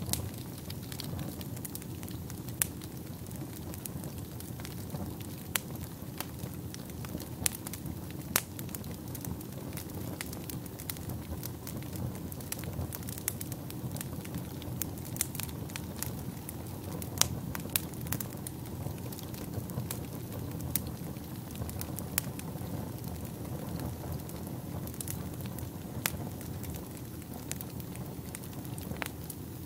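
Wood fire burning in a fireplace, a steady low rumble of flames with irregular sharp crackles and pops, a few of them louder than the rest.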